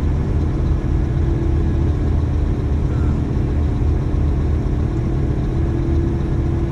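Dump truck's diesel engine running steadily at low revs while the truck creeps along looking for a parking spot, with a constant low rumble and a steady hum.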